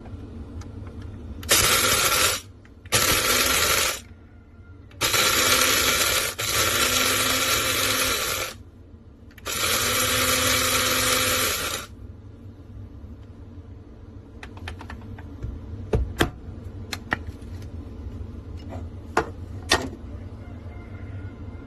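BLACK+DECKER One Touch electric blade coffee grinder run in four pulses, two short and two longer, its motor and blades whirring loudly each time. Then a string of sharp clicks and taps.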